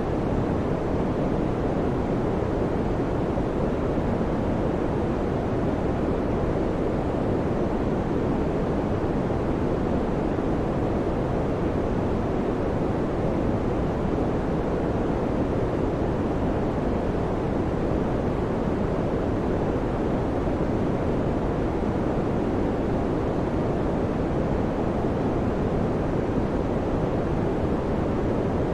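Electric fan running: an even, unchanging rushing noise, deepest in the low and middle range, with no hum or beat.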